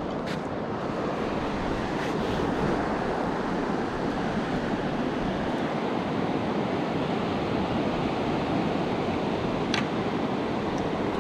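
Sea surf washing on the shore, mixed with wind on the microphone: a steady, even rushing. A single faint click near the end.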